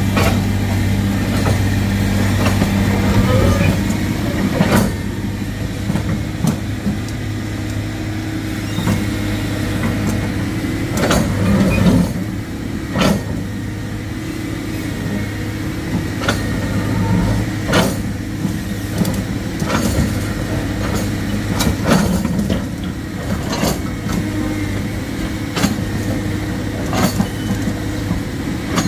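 A heavy diesel engine running steadily under load, with irregular sharp knocks and clanks of heavy machinery working.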